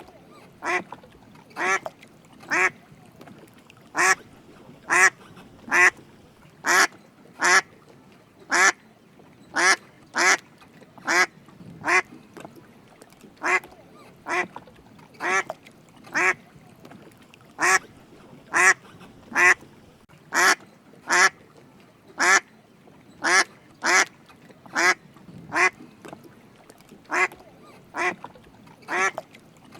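Drake mallard quacking: short calls repeated about once a second, often in quick runs of two to four.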